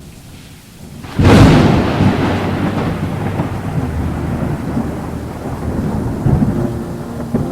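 A sudden thunderclap about a second in, then a long rolling rumble that slowly fades, over steady rain.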